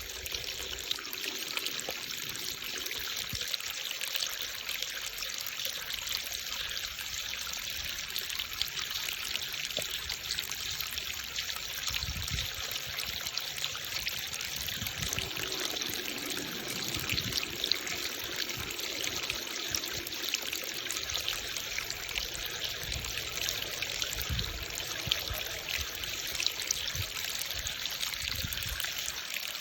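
Creek water trickling and babbling steadily over stones, with a few soft low bumps along the way.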